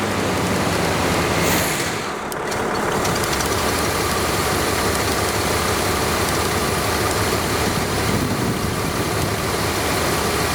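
Chevrolet 350 small-block V8 running at idle on its first start in five years; the sound dips briefly about two seconds in, then the engine runs steadily.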